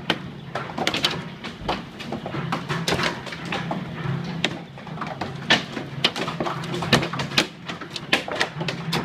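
Hailstones pelting down hard in a violent hailstorm: a dense, irregular patter of sharp cracks and clicks from stones striking, with a low steady hum beneath.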